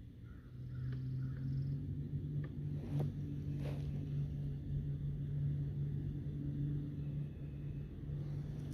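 Minn Kota electric motor of an Old Town Sportsman 106 kayak running, a steady hum that rises in pitch and gets louder about half a second in as it speeds up, then holds.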